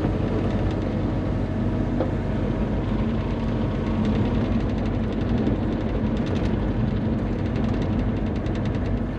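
Bobcat E35 mini excavator's diesel engine running steadily under working load. A rapid ticking clatter runs over it from about three to seven seconds in.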